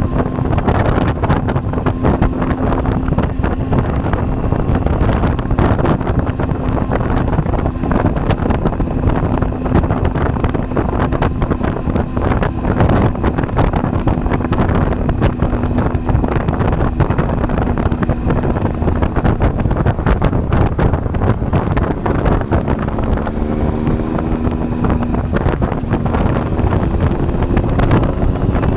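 Triumph Tiger 800's three-cylinder engine running at steady revs, with heavy wind noise on the microphone. About 23 seconds in, the engine note changes and rises slightly.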